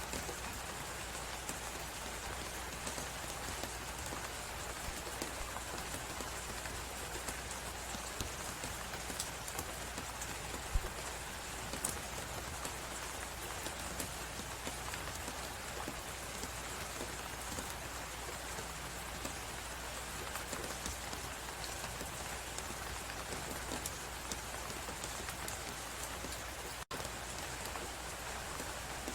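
Steady hiss of a blizzard's wind and snow, layered with the fine, dense crackle of a wood fire in a fireplace, with a couple of sharper pops. The sound cuts out for an instant near the end.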